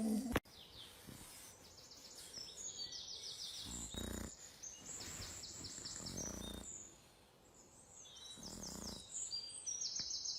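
Small birds chirping in quick, high trills, one after another, against faint outdoor background noise, with a few soft low rustles in between.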